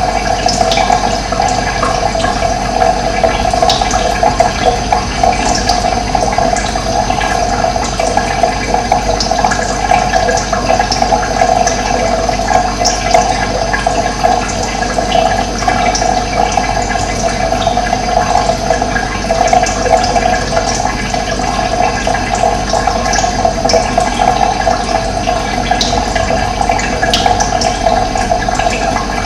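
Steady rushing of running water, strongest in a mid-pitched band, with occasional faint, short, high bird chirps over it.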